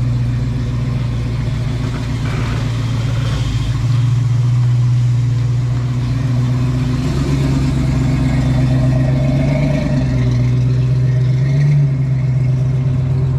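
Vehicle engine running steadily with a deep, even hum, getting a little louder about four seconds in.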